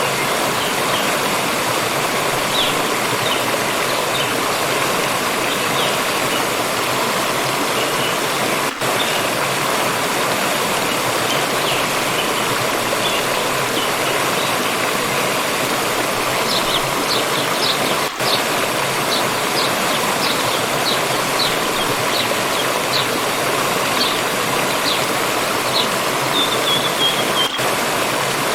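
Stream water flowing steadily, with small birds chirping in short, high notes, more often in the second half, and a brief falling trill near the end.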